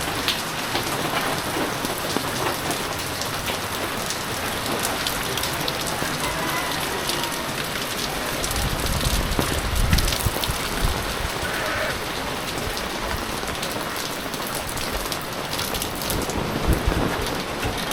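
Heavy typhoon rain falling steadily, a dense patter of drops on surfaces, with a couple of low rumbles about halfway through and again near the end.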